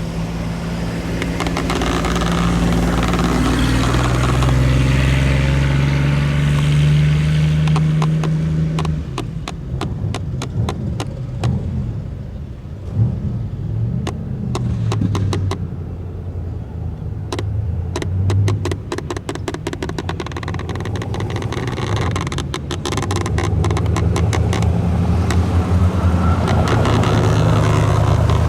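A vintage car's engine running and revving. Its pitch climbs over the first several seconds, then rises and falls. Through the middle there is a dense crackle of sharp clicks.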